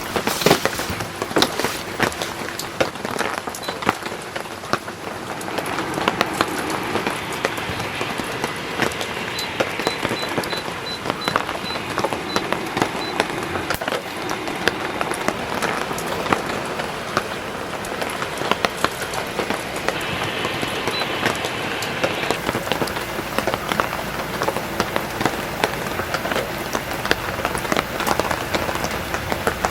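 Heavy rain falling steadily: a dense hiss of many individual drop strikes.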